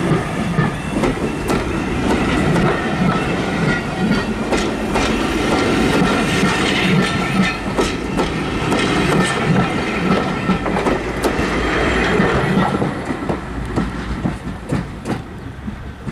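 Railway passenger coaches rolling past close by, their wheels clattering over the rail joints in an irregular run of clicks. About three-quarters of the way through the sound fades as the last coach passes and moves away.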